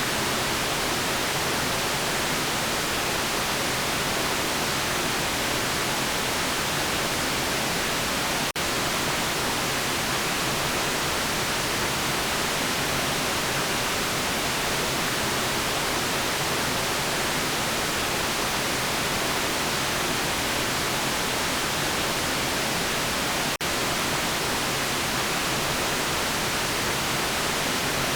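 White noise: a steady, even hiss of generated noise, broken by two split-second dropouts, about eight seconds in and again near the end.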